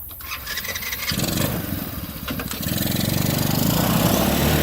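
Small 125cc four-stroke engine of a gas mini-jeep UTV being electric-started: it catches about a second in, falters briefly, then settles into steady, louder running.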